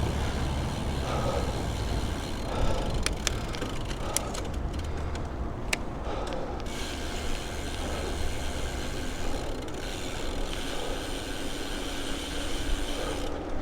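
Bicycle riding along a city street: a steady rumble of riding noise, with a few sharp clicks from about three to six seconds in.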